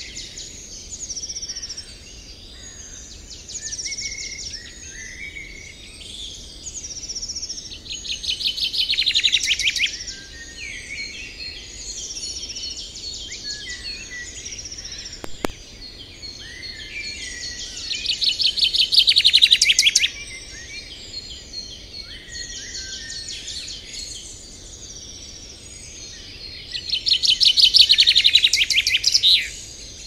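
Birds chirping and singing, with a loud rapid trill three times, about nine seconds apart, and a single sharp click near the middle.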